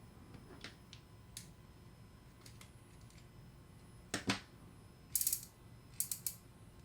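Pro Gear V42 star drag reel's spring-loaded anti-reverse dog ratcheting: two short runs of rapid clicks, after a couple of light metal knocks about four seconds in. This is the audible click the reel makes whenever it is reeled in.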